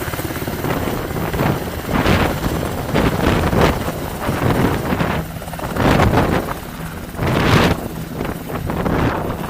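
Sikorsky HH-60G Pave Hawk helicopter running, with gusts of wind buffeting the microphone that swell and fade several times.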